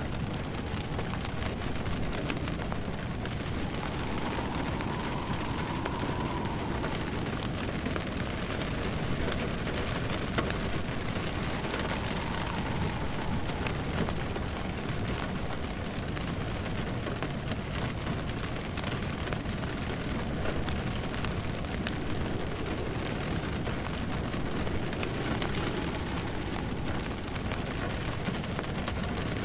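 Steady rain falling, layered with a crackling wood fire in a fireplace that gives scattered sharp crackles over the rain.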